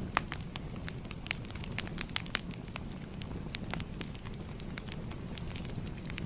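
Crackling fire: irregular sharp pops and snaps, several a second, over a steady low rumble of burning.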